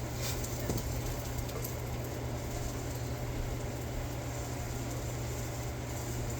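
Birria taco frying in a pan with a steady, faint sizzle over a constant low hum, with a couple of light clicks early on.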